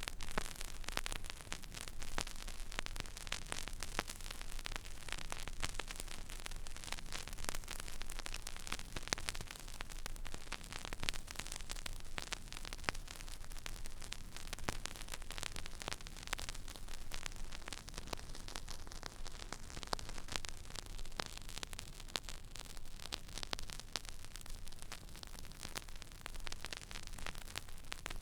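Turntable stylus riding an empty vinyl record groove: steady surface hiss thick with small clicks and crackles, over a faint low hum.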